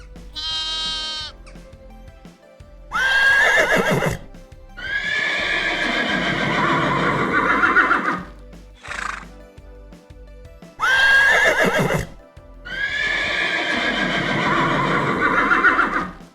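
A horse whinnying, the same long call heard twice about eight seconds apart, over background music.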